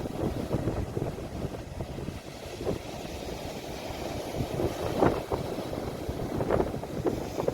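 Sea waves recorded on a phone, with wind buffeting the microphone as a low rumble and a few brief louder gusts.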